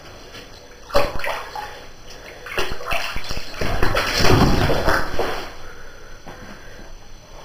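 Water sloshing and splashing in a bathtub as a cat moves about in it. It starts suddenly about a second in, is busiest and loudest in the middle, then dies down.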